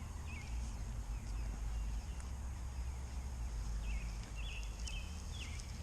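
Cornish Cross meat chickens giving short, high peeps, a couple near the start and a quick run of them in the last two seconds, over a steady low rumble.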